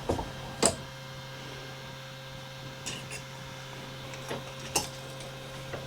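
A steady low electrical hum, with a few short clicks and taps of small metal parts being handled, the sharpest about a second in and again near the end.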